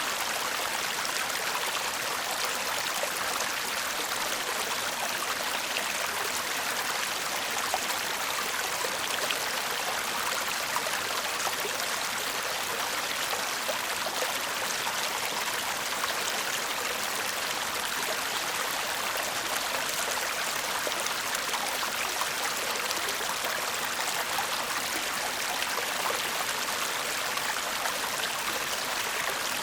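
Shallow stream babbling steadily over stones, a continuous gentle rush of water with fine trickling detail.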